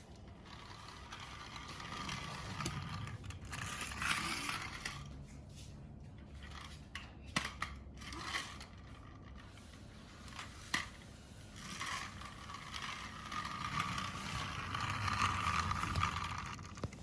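Plastic toys being handled and scraped over a surface, with a few sharp clicks and knocks.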